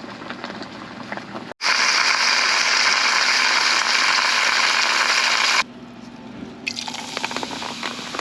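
A loud, steady rushing hiss that starts and stops abruptly and lasts about four seconds, with faint crackling and small clicks around it.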